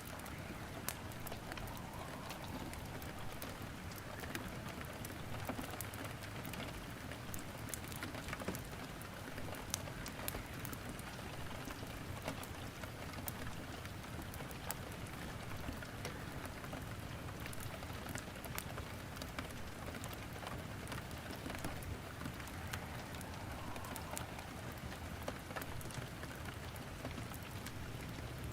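Steady rain falling, with frequent sharp crackles and pops from wood burning in a fireplace scattered over it.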